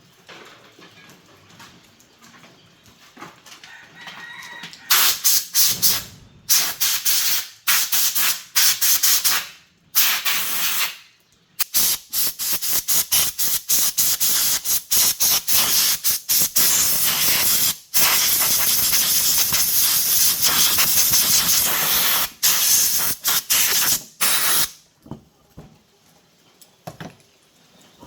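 Loud hissing spray from a nozzle, starting about five seconds in as many short bursts with one longer blast of several seconds, then stopping a few seconds before the end.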